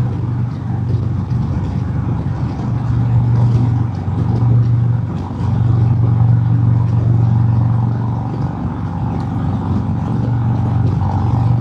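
Harley-Davidson Road King Special's Milwaukee-Eight V-twin running steadily under way, a deep low drone mixed with wind and road noise on the helmet microphone. The engine note eases briefly about five seconds in, then holds steady again.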